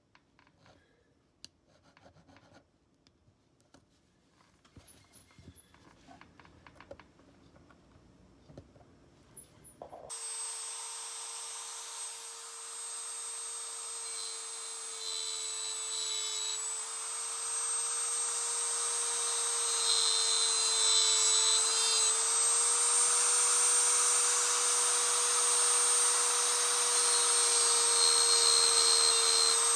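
Faint handling clicks, then about ten seconds in a small power tool starts and runs steadily with a high whine whose pitch wavers slightly under load, with a rubbing, grinding noise as it works on the knife.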